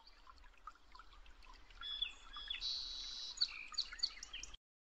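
Several birds chirping and singing in short whistles and trills, growing louder about two seconds in and cutting off suddenly near the end.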